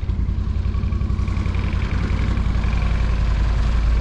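Bobcat E42 mini excavator's diesel engine running steadily, a deep even hum that grows a little louder in the second half.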